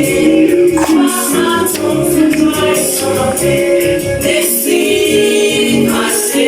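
Gospel music: a choir singing in parts, with tambourine strikes keeping the beat.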